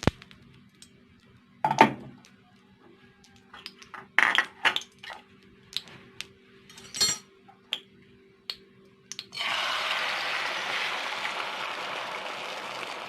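Dishes, glasses and cutlery clinking and knocking, a dozen or so separate clinks, over a faint steady hum. About two-thirds of the way in a steady hiss starts and runs for about four seconds.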